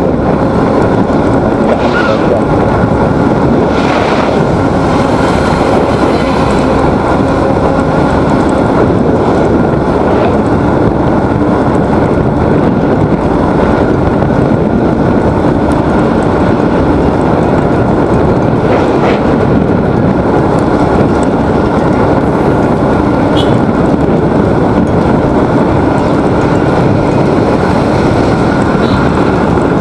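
Motorcycle riding noise: steady wind rushing over the microphone mixed with the bike's engine and road noise at a constant cruising speed.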